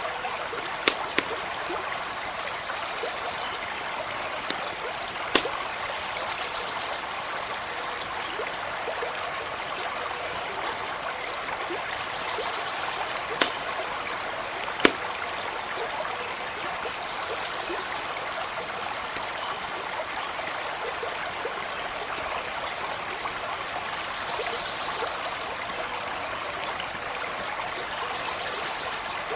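A stream running steadily, with a handful of sharp pops and crackles from a campfire scattered through it.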